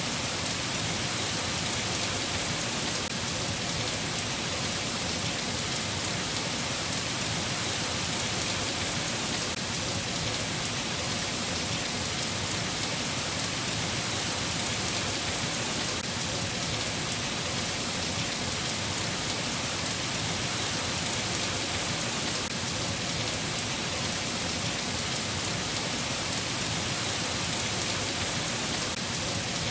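Steady rain falling, an even hiss of drops with no single event standing out.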